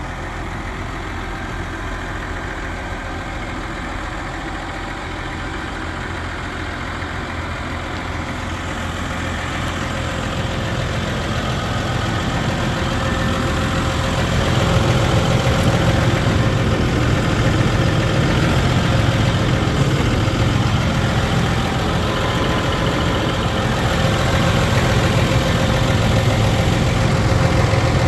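Case IH Puma 200 CVX tractor's six-cylinder diesel engine running at idle. It gets steadily louder from about eight seconds in and then holds steady.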